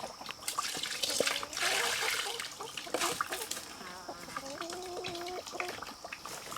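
Water splashing and pouring in short bursts, then a chicken calling with one long wavering note about four seconds in.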